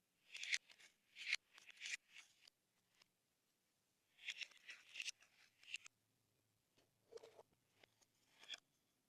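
Slime being squeezed and worked by hand, giving short crackling, popping squishes in three bursts.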